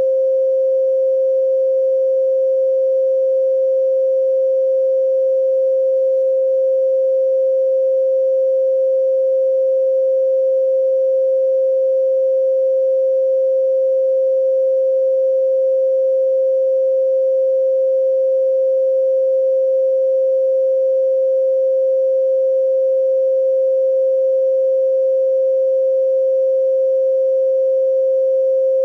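A steady pure 528 Hz sine tone, held unchanging at one pitch.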